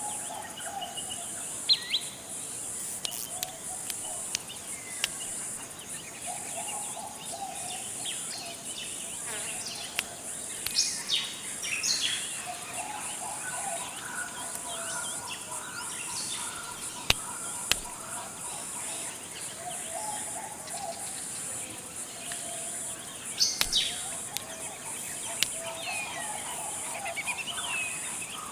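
Forest ambience: a continuous high-pitched insect drone, with scattered bird calls on top, some sharp and short, some lower warbling phrases.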